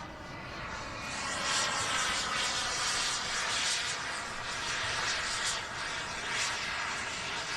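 Radio-controlled turbine-powered model A-4 Skyhawk jet making a high-speed pass: a loud rushing jet-turbine noise that swells about a second in and holds.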